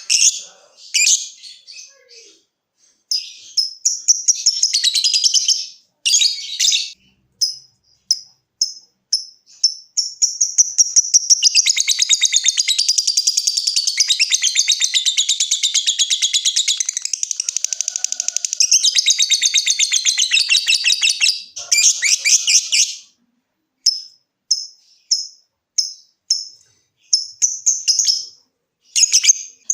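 Lovebird calling: a string of short, separate high chirps, then from about ten seconds in one long, very fast rattling trill lasting some twelve seconds, the "ngekek" call prized by keepers, then short separate chirps again near the end.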